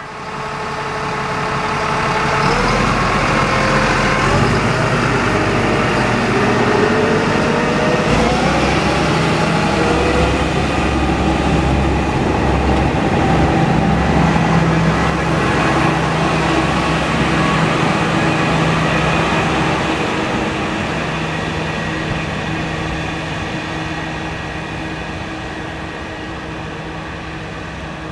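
Small tourist trolley train pulling away from a station: its drive runs with a steady hum and rises in pitch twice as it picks up speed. It then slowly fades as the train moves off.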